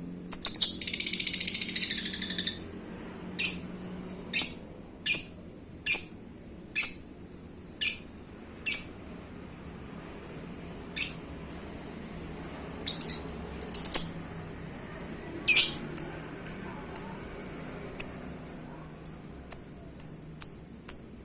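Lovebird calling: sharp, high chirps repeated about once a second, with a burst of rapid, buzzy chatter near the start. After a pause of a few seconds midway, the chirps quicken to about two a second near the end.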